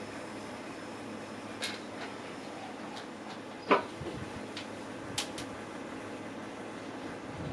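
Handling noise from working on a PC case: two light clicks and, about midway, one louder, sharper clack, over a steady background hiss.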